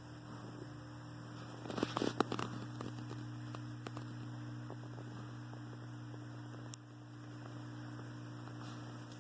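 Steady low electrical hum, with a short cluster of small knocks about two seconds in and a single sharp click later on.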